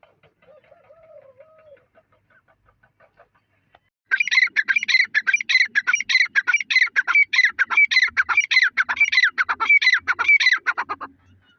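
Teetar (francolin) calling: after a few faint chirps, a loud, rapid run of sharp high-pitched notes begins about four seconds in, several a second, and stops shortly before the end.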